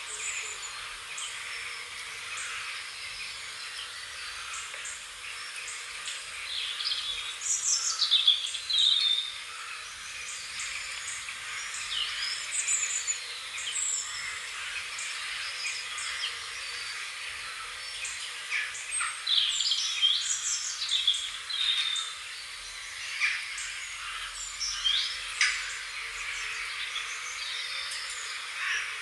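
Wild birds chirping and calling, many short calls and quick trills scattered throughout, loudest about eight seconds in and again around twenty seconds, over a steady high hiss.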